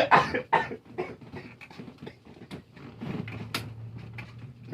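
A few scattered small clicks and knocks over faint background noise, with one sharper click about three and a half seconds in.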